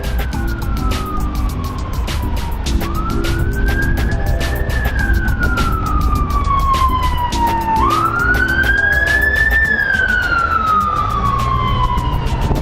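A siren-like wail rising and then slowly falling in pitch, three times about five seconds apart, over background music with a steady beat.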